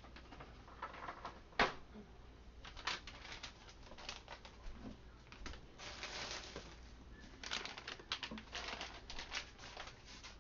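Garlic cloves dropped into glass canning jars: a string of light clicks and knocks, with one sharper knock about a second and a half in and a short rustle near the middle.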